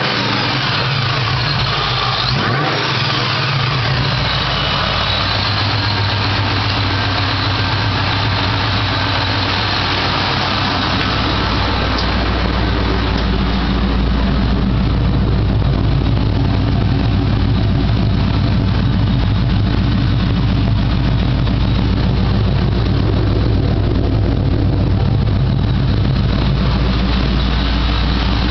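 2004 Ford Mustang SVT Cobra's supercharged V8 idling, its pitch sliding briefly in the first few seconds before settling into a steady idle. The low rumble grows heavier about a third of the way in.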